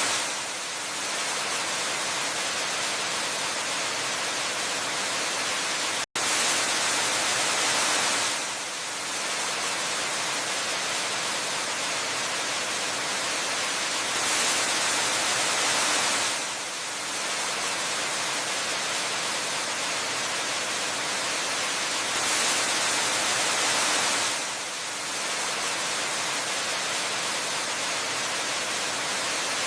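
Waterfall pouring in a steady, hiss-like wash of water noise that swells and eases gently about every eight seconds. The sound cuts out for an instant about six seconds in.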